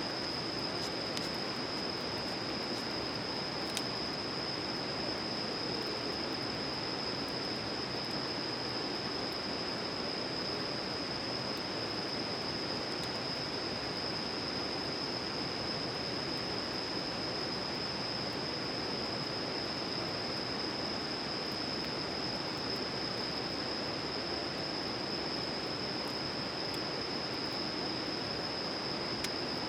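Outdoor night ambience by a campfire: a steady rushing hiss under a continuous high insect trill, with a few faint crackles from the fire.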